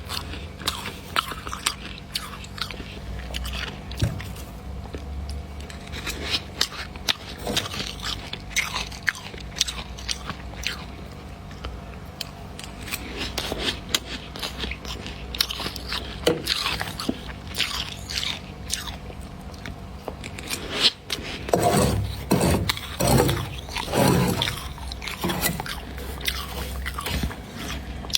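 Someone crunching and chewing mouthfuls of freezer frost: a dense, irregular crackle of small crunches, with a run of louder, heavier crunches near the end.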